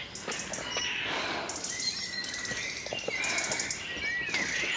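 Small songbirds singing: rapid high trills and short whistled notes, one after another.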